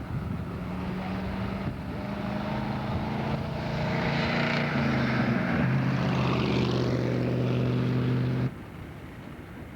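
An engine running with a steady hum that grows louder, its pitch dropping in steps partway through, then cutting off suddenly about eight and a half seconds in.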